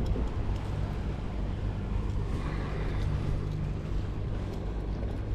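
Boat engine running at a steady low drone, under a hiss of wind and water.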